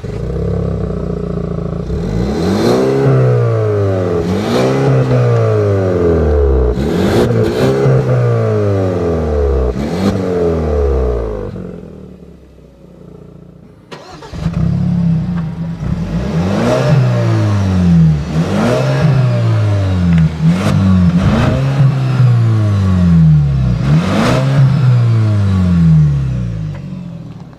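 A small crossover's turbocharged 2-litre four-cylinder engine being revved hard again and again, its pitch climbing and dropping back every second or two. There are two long stretches of this, with a short lull about twelve seconds in.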